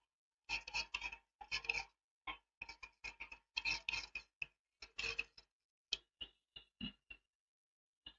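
Faint, irregular light ticks and short scrapes of small metal tools working on a phone logic board and its BGA reballing stencil, with a few brief metallic rings near the middle.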